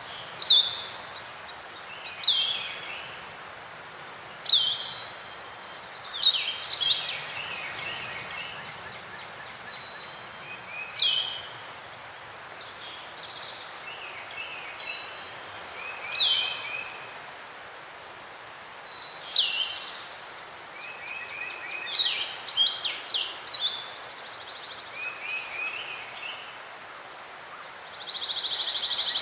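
Several songbirds singing over a steady outdoor hiss: short, high, sharply sweeping whistled notes repeated every second or two, with brief trills between them, and a buzzy call near the end.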